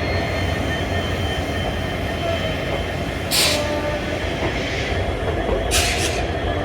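Passenger train running: a steady low rumble with faint steady whining tones. Two short bursts of hiss come about three and six seconds in.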